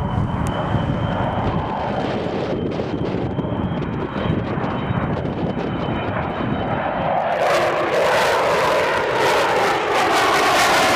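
Aircraft engine noise from a display aircraft, a low rumble that grows suddenly louder and fuller about seven seconds in as the aircraft comes closer.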